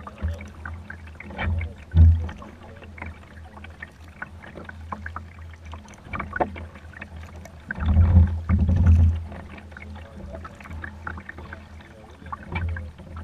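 Kayak paddling through floodwater: repeated paddle splashes and drips. There are dull low thumps about two seconds in and a longer, louder stretch about eight to nine seconds in.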